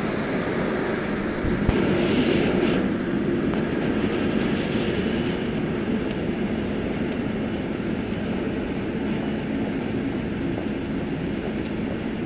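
Container freight train hauled by a Class 185 electric locomotive running through the station on a far track: a steady rumble of the train and its wheels on the rails.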